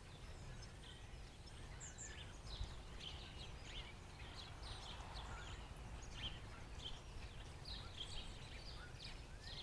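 A flock of blackbirds calling: many short, overlapping chirps and squeaks, over a steady low rumble.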